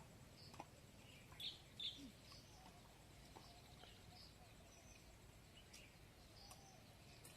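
Faint, scattered bird chirps over a low background hum, with two slightly louder chirps close together about one and a half seconds in.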